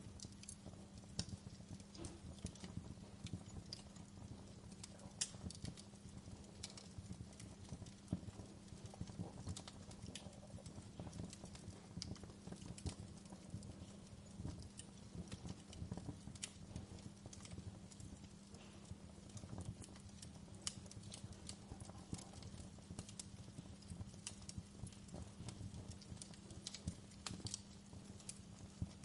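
Wood fire in a fireplace crackling, with irregular sharp snaps and pops of burning logs over a steady low rumble.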